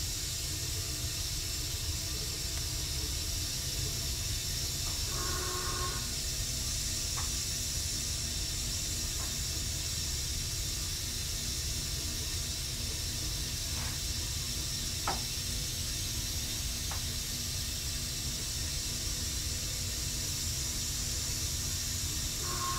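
Running noise of a Tobu 6050 series electric train heard inside the passenger car: a steady low rumble of the wheels on the track under a constant hiss. A few isolated sharp clicks break through, the loudest about fifteen seconds in, and a brief whining tone comes about five seconds in and again at the very end.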